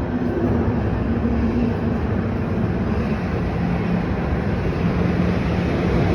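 Steady running noise of a TTC transit vehicle heard from inside: a low rumble with a hum that shifts slightly in pitch.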